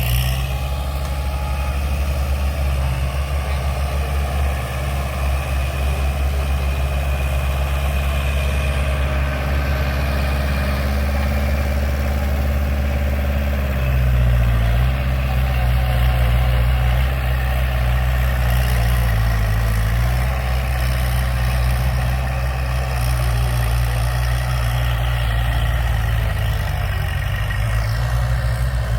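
Kubota tractor engine running steadily, its note shifting about halfway through.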